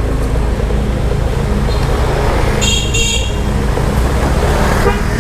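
Steady low rumble of a car driving slowly through street traffic. Two short vehicle-horn toots come close together about three seconds in, and another horn starts near the end.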